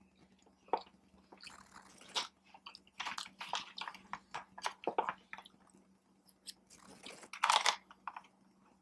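Close-miked chewing: a person eating a mouthful of vegan red velvet cake, with irregular wet mouth sounds, loudest near the end.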